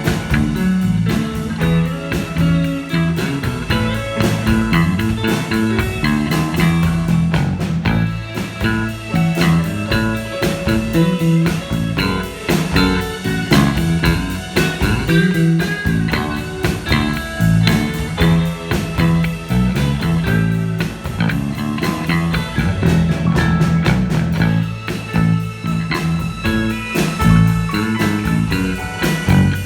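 Band music led by guitar, with bass guitar and a steady drum beat.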